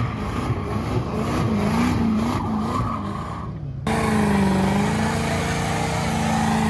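Car engines revved hard with tyre squeal, as in a burnout. At first the revs rise and fall repeatedly. About four seconds in, the sound cuts abruptly to another engine held at steady high revs over the screech of spinning tyres.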